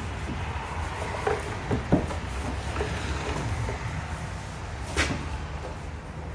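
A few light knocks and clunks, the sharpest about two seconds in and another about five seconds in, over a steady low hum.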